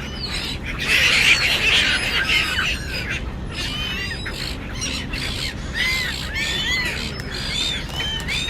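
A flock of birds squawking and calling over one another as they are fed, many short arching calls overlapping, thickest about a second in.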